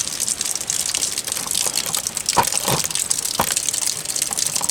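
Steady rain falling, a dense patter of fine drop ticks, coming down hard. A few louder knocks stand out about two and a half and three and a half seconds in.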